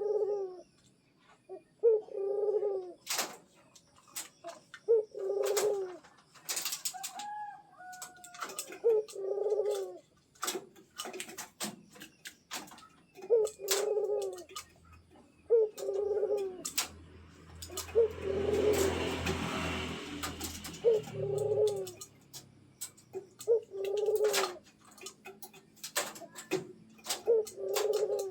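Pet puter dove cooing over and over, one short coo phrase every couple of seconds, with sharp clicks in between. A brief two-note whistle comes about seven seconds in, and a rushing noise with a low rumble swells up about two-thirds of the way through.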